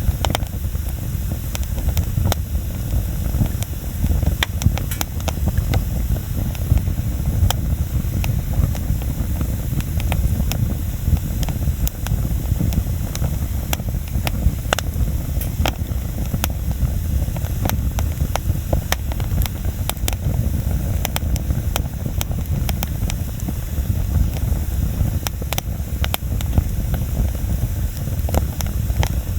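Wood bonfire burning: frequent sharp crackles and pops at irregular intervals over a steady low rumble.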